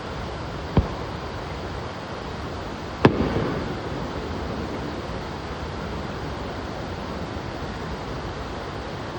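Fireworks shells bursting: a smaller bang just under a second in and a louder bang about three seconds in, trailing off in a short rumble, over steady background noise.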